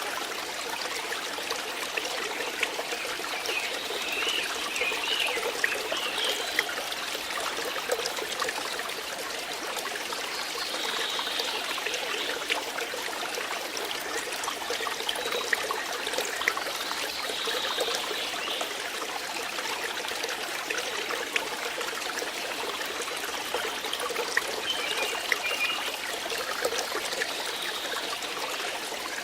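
Water flowing and trickling steadily, with many small splashing drips in the rush.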